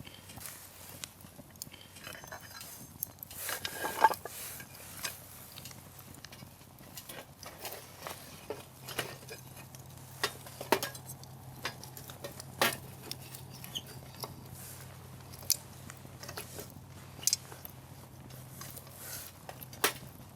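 Campfire of burning firewood crackling, with irregular sharp pops, the loudest about four seconds in.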